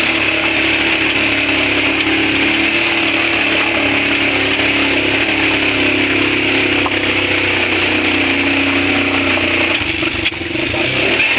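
Small motorcycle engine running steadily while the bike is ridden, dipping briefly near the end.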